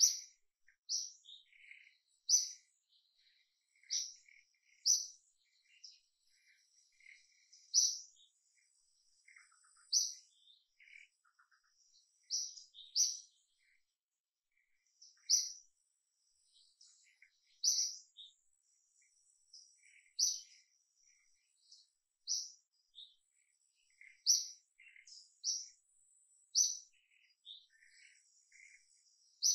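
Wild birds chirping in the surrounding trees: short, high chirps repeated every second or two, with fainter, lower calls in between.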